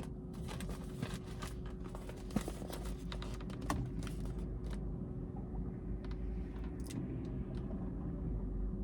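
Light clicks, taps and rustles of a takeout burger and its packaging being handled and propped up: frequent in the first few seconds, then sparser. A steady faint hum runs underneath.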